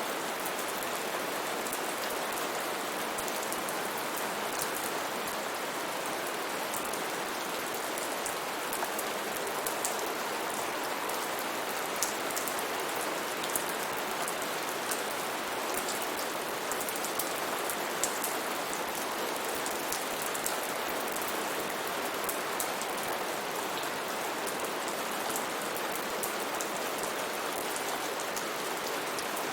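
Steady rainfall, an even hiss with many distinct drops pattering and ticking on a surface.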